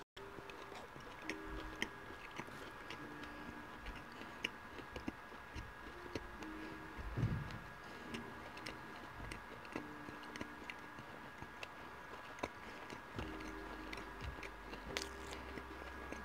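Close-miked chewing of a battered cod fish sandwich on a soft bun, with many small wet mouth clicks.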